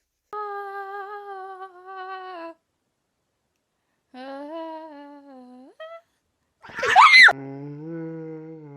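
Long, steady, drawn-out vocal notes in three stretches separated by dead silences, with a short, loud cry that rises and falls about seven seconds in.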